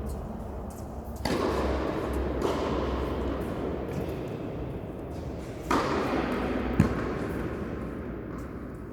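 A single sharp knock of a tennis ball near the end, over a rushing noise that rises suddenly twice.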